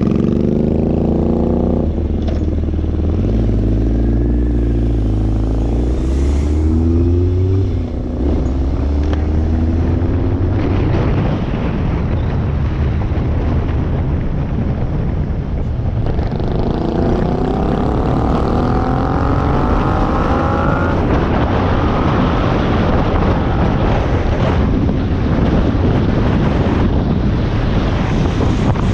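Motorcycle engine accelerating under way, its pitch climbing and dropping back several times as it shifts up through the gears, with a long climb about two-thirds of the way through. Wind rushes over the microphone throughout.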